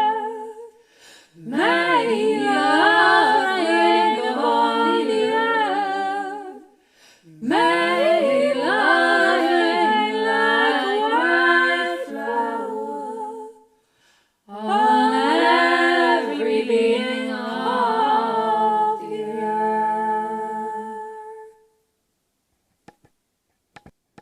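Four-part a cappella vocal harmony, hummed without words, in three long phrases with short breaths between them; the last chord fades out a few seconds before the end, leaving silence.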